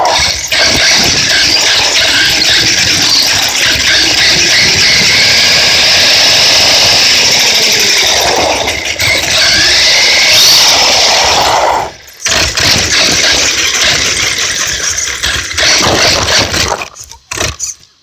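Radio-controlled trucks driving hard: loud, continuous high-pitched motor and tyre noise. It drops out for a moment about twelve seconds in and breaks up into stops and starts near the end.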